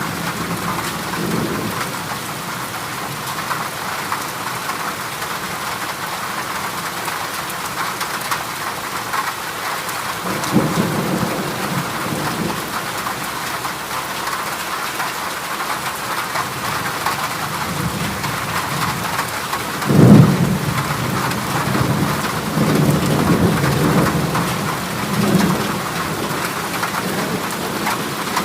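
Heavy rain drumming steadily on a corrugated galvanized-iron roof. Low rumbles of thunder come about ten seconds in and again from about eighteen seconds on, with the loudest, sharpest clap at about twenty seconds.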